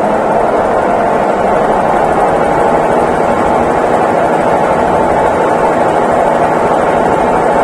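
Consul Facilite 11 kg top-loading washing machine running at its drain-and-spin stage: a steady, loud, continuous whirring hum with no breaks.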